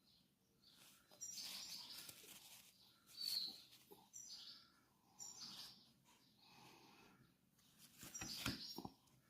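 Small songbird giving soft, high chirps about once a second, with a few sharp clicks near the end.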